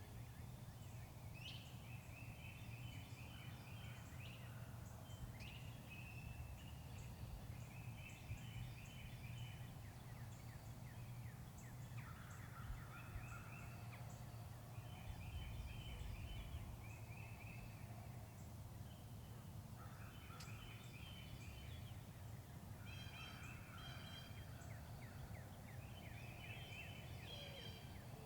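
Faint turkey calls: short bursts of quick, rapid notes that come again every few seconds, over a steady low rumble.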